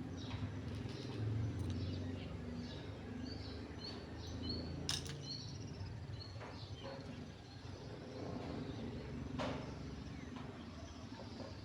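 Small birds chirping in short high notes over a low steady background hum, with two sharp clicks, about five and nine seconds in.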